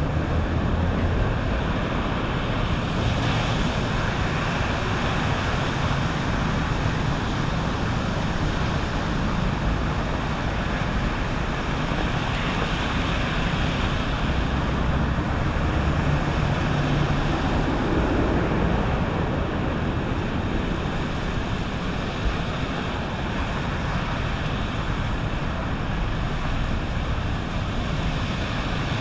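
Sea waves washing onto a beach in a steady roar of surf, with wind buffeting the microphone in a low, uneven rumble.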